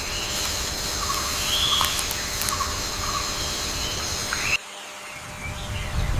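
Tropical forest ambience: a steady high insect drone with scattered short bird chirps. About four and a half seconds in it cuts off abruptly to a quieter background, where a low rumble builds toward the end.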